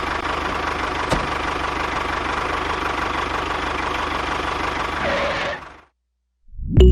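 Small engine running steadily with an even, rapid low chugging, then fading out about five and a half seconds in. After a brief silence, music starts at the very end.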